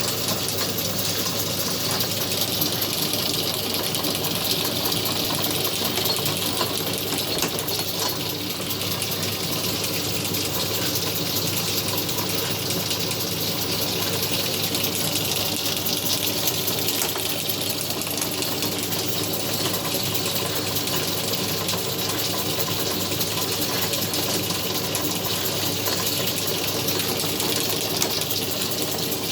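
Atlas 10-inch metal lathe running steadily, its motor and gear train giving an even hum and whine with a hiss and fine rapid clatter.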